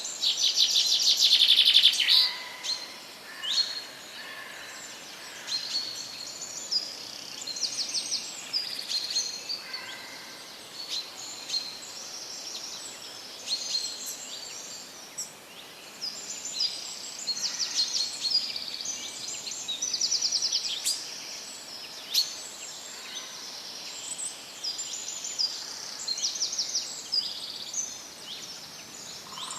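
Several small birds chirping and singing, with short high chirps and rapid trills throughout; a loud, fast trill in the first two seconds.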